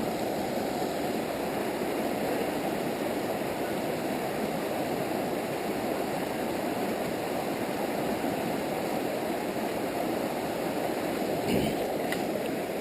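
River water rushing steadily over rocks, an even, unbroken noise of flowing water.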